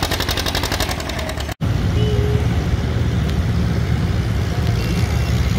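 Antique farm tractor engine running with rapid, even exhaust pulses, cut off abruptly about one and a half seconds in. A steady low engine rumble follows.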